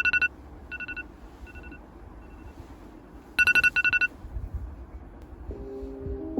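Electronic alarm beeping in quick bursts of rapid high beeps, sounding twice about three and a half seconds apart, with fainter echoing repeats fading away between the bursts. Soft piano music begins near the end.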